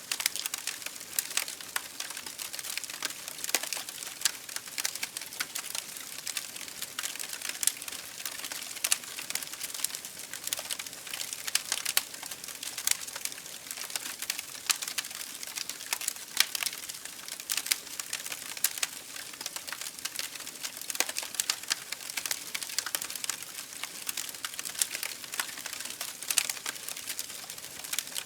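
Campfire crackling: many small irregular snaps and pops of burning wood every second, with an occasional louder pop, going on steadily.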